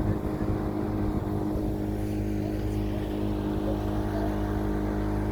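A boat's motor running at a steady speed: a constant engine hum that holds one pitch, with no revving.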